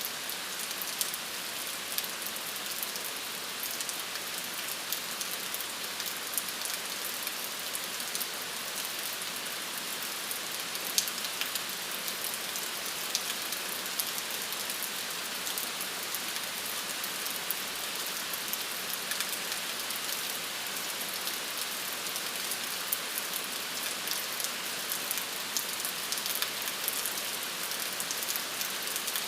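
Steady rain: an even hiss with many separate drops clicking through it.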